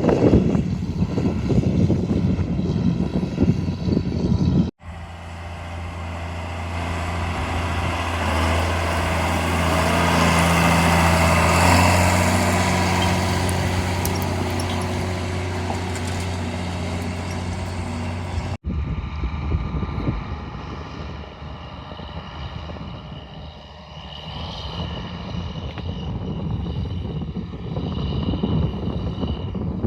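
John Deere 4955 tractor's diesel engine running steadily at work, in three cut-together shots: the first rough and windy, the middle one growing louder and then fading as the tractor passes, the last with a steady higher whine over the engine.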